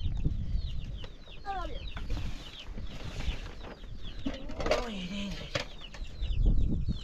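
Chickens calling: a steady run of short, high, falling peeps, with a few lower clucks in the middle.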